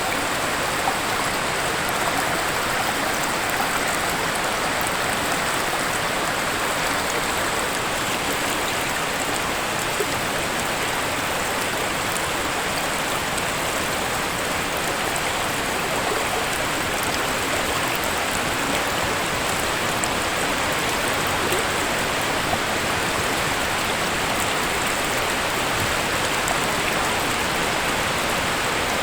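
Waterfall rushing steadily, an even unbroken wash of falling water.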